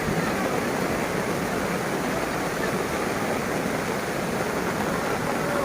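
Floodwater of a swollen, overflowing river rushing steadily, a dense unbroken noise of fast-moving water.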